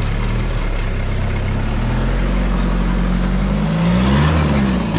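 Turbo-diesel engine of a Toyota Hilux rock-crawling truck running at low revs, revving up and back down once near the end.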